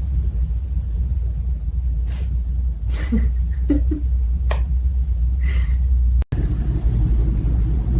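A steady low rumble, with a few faint short clicks and brief chirp-like sounds in the middle, and a momentary dropout about six seconds in.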